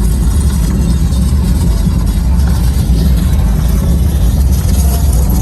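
Loud, steady bass rumble from a concert sound system, heavy enough to overload the recording.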